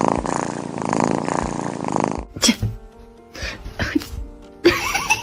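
Cat vocal sounds with background music: a dense, steady noisy sound for about two seconds that cuts off suddenly, then a few short calls over held music tones.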